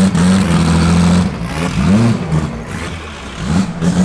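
Twin-turbo Chevrolet Omega drag car's engine held at a steady rev for about a second, then blipped twice, each blip rising and falling quickly.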